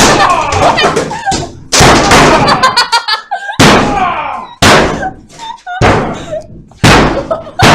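A Fisher & Paykel washing machine being struck hard again and again: five heavy crashing blows about a second apart, each ringing off, mixed with angry shouting.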